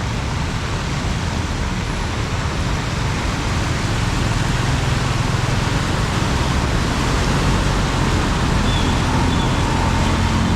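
Steady, loud rush of a heavy rainstorm mixed with the low rumble of road traffic on a flooded street.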